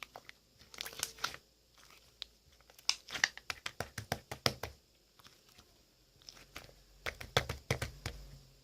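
Grey slime being handled, pressed and stretched, giving clusters of quick sticky clicks and crackles. There are three bursts with quieter pauses between them.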